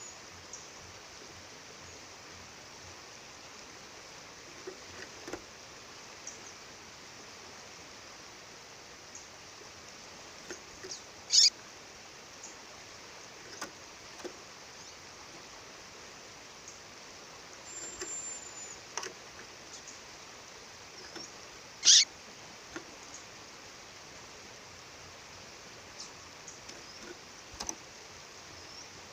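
A female bird giving sharp, very short down-slurred call notes, two loud ones about eleven seconds apart, with a few faint high thin whistles and soft ticks between, over the steady rush of a waterfall.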